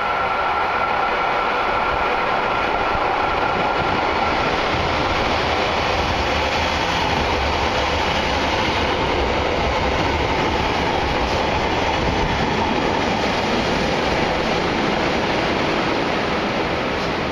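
A JR Hokkaido 733 series electric multiple unit running past close by as it pulls into the station, a steady loud wheel-and-rail running noise throughout. A high steady tone near the start fades out over the first few seconds.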